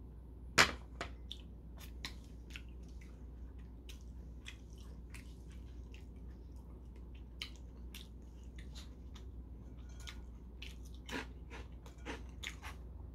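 A mug set down on a table with one sharp knock about half a second in, then close-up chewing of crisp food: faint irregular crunches and mouth clicks.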